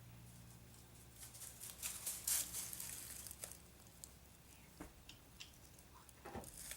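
A gate held shut with a rope, shifting and knocking: a scraping rustle about a second in, then a few light, scattered knocks.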